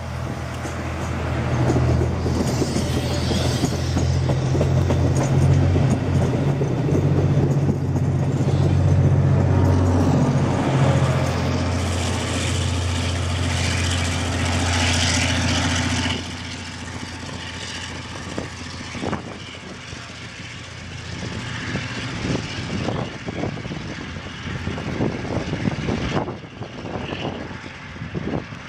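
Trains on the line: a loud, steady low drone with rail noise for the first half. It cuts off suddenly about halfway through, leaving a quieter, more distant train with scattered wheel clicks.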